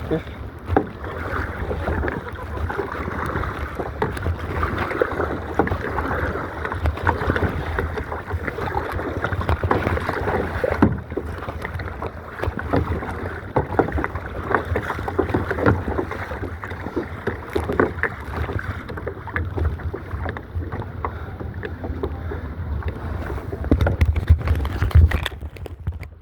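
Water splashing and sloshing around a kayak, with irregular small splashes throughout and wind rumbling on the microphone.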